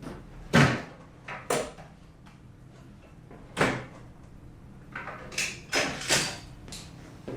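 A series of about nine sharp knocks and clunks, the loudest a little over half a second in, of hard objects being handled and set down.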